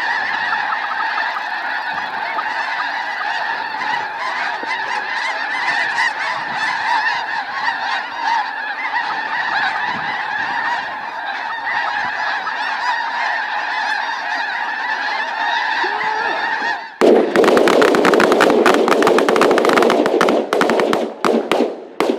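A large flock of snow geese calling continuously in a dense clamour. About seventeen seconds in, a volley of many shotguns firing rapidly together breaks out, louder than the calling, and lasts several seconds before thinning to a few separate shots near the end.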